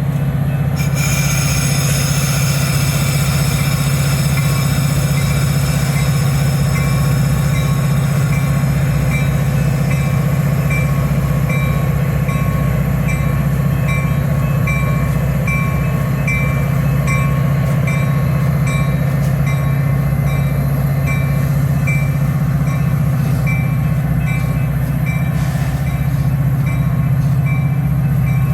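A diesel train locomotive running with a steady, unchanging low drone, while a bell dings evenly a little faster than once a second.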